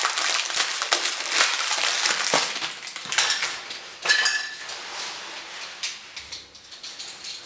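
Clicks, scrapes and clinks of hard plastic and metal being handled at close range, as a wall light switch is worked on and a new one readied for wiring. Busiest through the first four seconds, sparser after.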